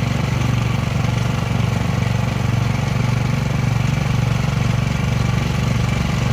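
Snow blower's gas engine running steadily.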